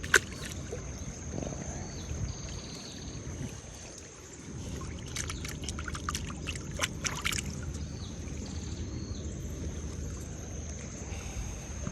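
A steady high insect drone over low outdoor background noise, with a sharp click at the start and a cluster of quick clicks and taps around the middle, typical of handling fishing gear.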